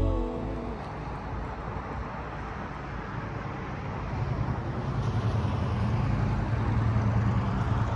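Road traffic: the steady running of a motor vehicle's engine over street noise, growing louder from about four seconds in.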